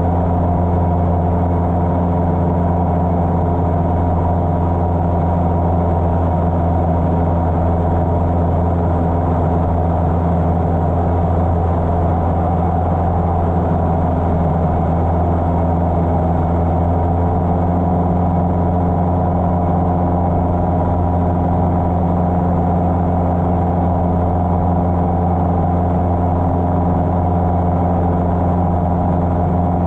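Cessna 150's Continental O-200 four-cylinder engine and propeller running steadily in flight at an even, unchanging pitch.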